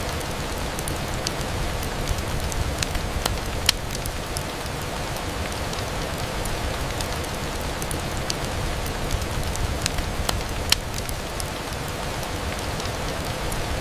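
Steady rain pattering on a window, with scattered sharp ticks throughout and two louder ones, about four seconds in and near eleven seconds.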